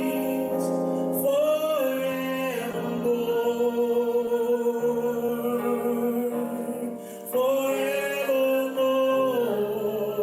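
Gospel worship song: a lead singer holds the words "reigns" and "forevermore" in long, drawn-out notes with vibrato, over sustained instrumental chords.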